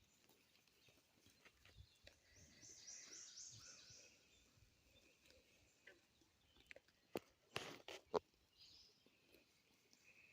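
Quiet outdoor ambience. About two seconds in, a bird gives a quick run of high chirps, and a few sharp clicks or rustles come near the seven-to-eight-second mark.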